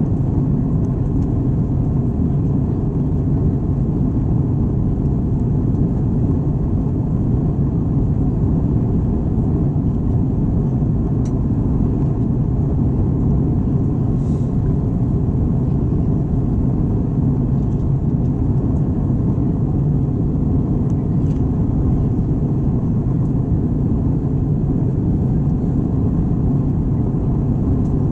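Airbus A321 cabin noise: a steady low rumble of the airliner's engines and airflow, heard from a window seat, with a few faint ticks.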